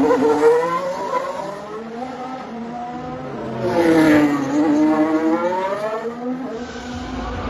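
Formula 1 cars going past with engines at high revs. One is loudest at the start and fades away. A second comes through about four seconds in, its engine note dropping and then climbing again.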